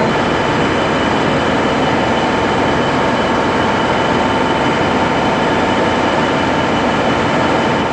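EMD V16 two-stroke diesel engine running steadily and loudly, a dense even rumble with a thin steady whine over it.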